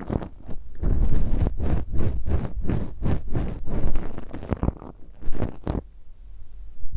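Ear pick scratching and scraping close on an ASMR microphone ear: a quick run of scratchy strokes that thins out and stops about six seconds in.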